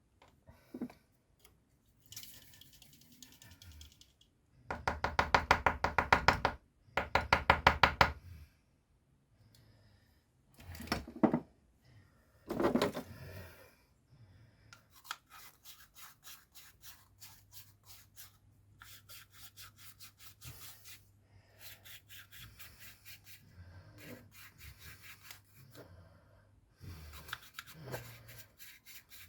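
Bursts of rapid, evenly repeated scraping strokes and small knocks from hand work on the coffee machine's pump parts. The loudest runs come about five to eight seconds in, and softer, faster ticking runs fill the second half.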